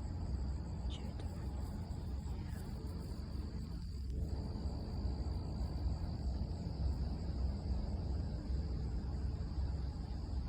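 Steady high-pitched chirring of crickets over a constant low rumble.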